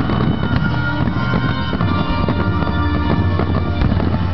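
Loud music with sustained tones, with several sharp bangs of aerial firework shells bursting over it.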